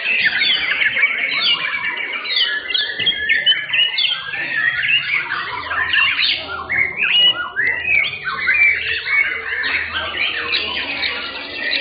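Many caged white-rumped shamas (murai batu) singing at once, a dense unbroken mix of overlapping whistles, chirps and quick trills.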